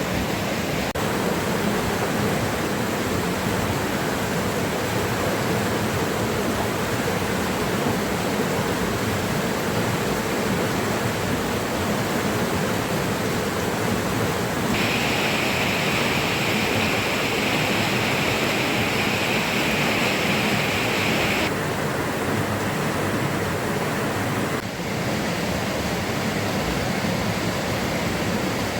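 Steady rushing of water, with no speech. A brighter hiss joins for about seven seconds in the middle, then stops abruptly.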